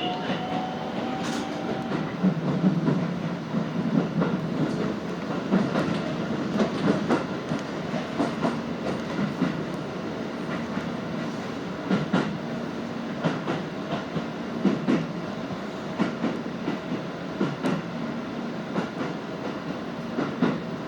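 Keisei Main Line electric commuter train running, heard from inside the car: a steady running rumble with a motor hum, and wheels clicking over rail joints at irregular intervals.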